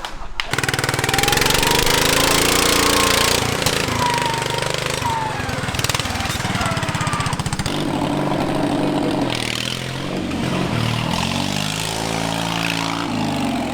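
Modified lawn-tractor mud mower's engine revving hard, its pitch repeatedly rising and falling. A loud rushing noise lies over it for the first few seconds.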